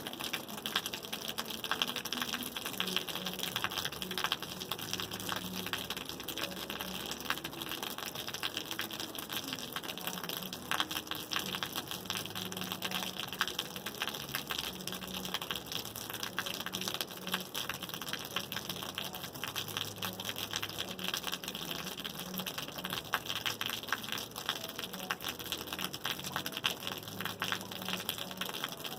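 Rain falling steadily: an even hiss of many small drops that keeps up without a break.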